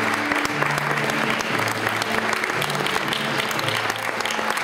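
Audience applauding steadily, with music playing underneath in low held notes that change about once a second.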